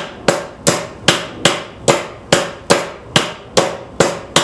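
A hammer driving a nail into birdhouse wood: a steady run of strikes, about two and a half a second, each dying away quickly.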